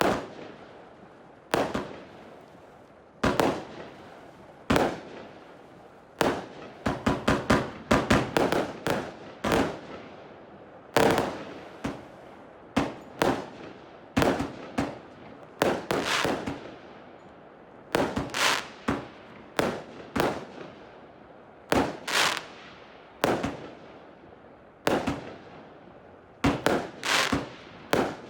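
A 161-shot firework compound cake firing. Sharp bangs come roughly every one to two seconds, each trailing off, with a rapid run of shots about seven to nine seconds in.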